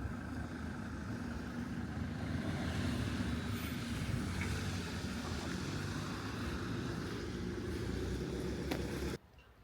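Car driving: a steady rumble of engine and road noise that cuts off suddenly near the end.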